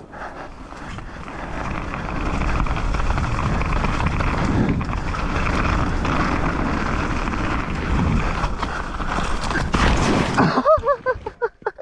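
Wind rushing over the microphone and a mountain bike rolling fast down a rough dirt trail, with knocks and rattles over the ground. The noise cuts off abruptly about ten and a half seconds in, followed by a few short rising-and-falling vocal sounds.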